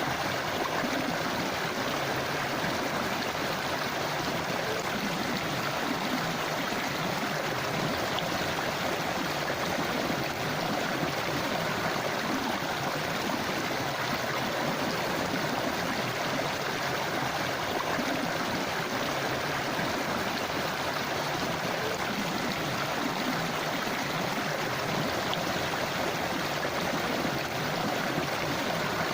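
Forest river flowing over rocks, a steady babbling and gurgling rush of water.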